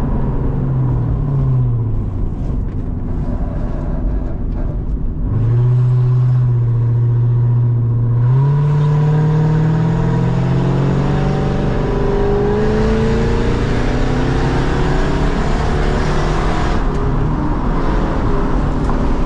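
Lexus SC400's V8 with a loud exhaust under way: the revs fall off in the first couple of seconds, then about five seconds in it comes on hard, the pitch climbing and staying high for the rest, with a few small rises and dips.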